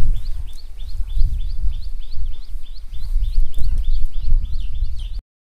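A bird calling over and over, short rising chirps at about four a second, over wind rumbling on the microphone. The sound cuts off suddenly near the end.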